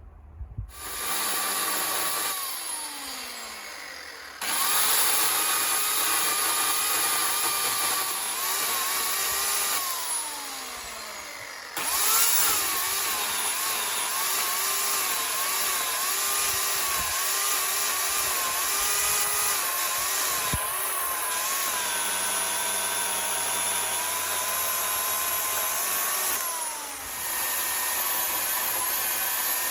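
Electric chainsaw running a Panther Cub thin bar and 1/4-inch chain, rip-cutting walnut. The motor whines up about a second in and runs down, starts again after about four seconds and eases off near ten. From about twelve seconds it cuts steadily, its pitch wavering under load, with a brief dip near the end.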